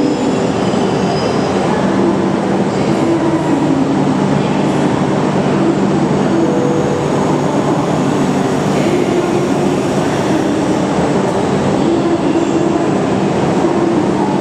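A Shinkansen bullet train moving along the station platform: a loud, steady rushing noise with low humming tones from the train's running gear.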